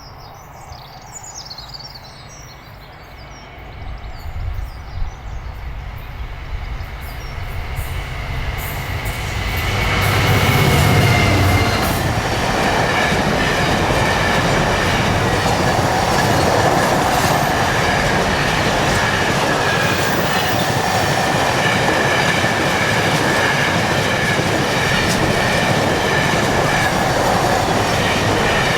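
A freight train passing close by: the locomotive's rumble builds to a peak about ten seconds in, then a long run of wagons rolls past with steady wheel noise, rail clatter and a high wheel squeal. Birds chirp faintly before the train arrives.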